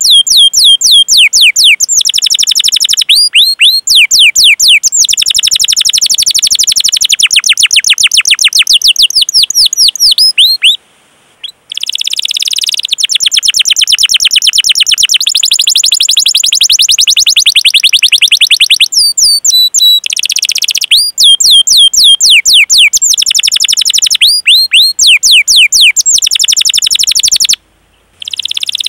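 Domestic canary in full song, delivering long rapid rolled trills of repeated down-sweeping 'cuit cuit' chirps, with brief pauses about a third of the way in and near the end.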